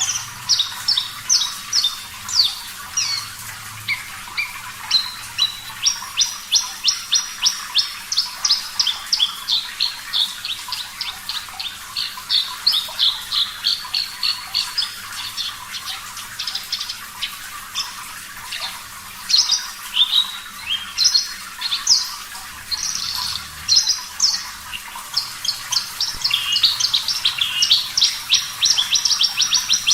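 Horsfield's bush lark (branjangan, race parva) singing a long unbroken song of rapid, sharp, repeated notes that shift in pitch from phrase to phrase, over a faint steady background of running water.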